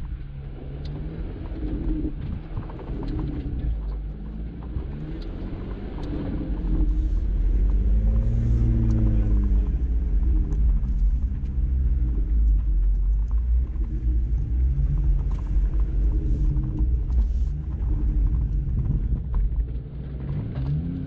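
Jeep Wrangler Rubicon's engine working at low speed on an off-road trail, its pitch rising and falling as the throttle opens and closes over a deep rumble. It gets louder about seven seconds in and stays so.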